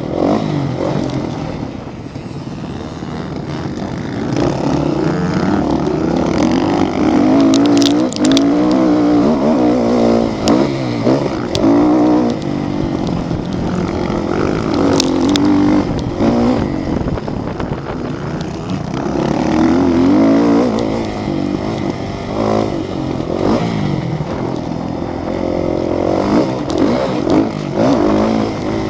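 Motocross motorcycles running on the track, their engines revving up and down with rising and falling pitch, at times more than one bike at once. A few sharp clicks come through about eight and fifteen seconds in.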